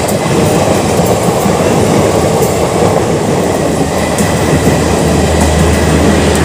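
Passenger train coaches rolling past on the rails, a loud steady rumble of wheels on track with a few faint clicks.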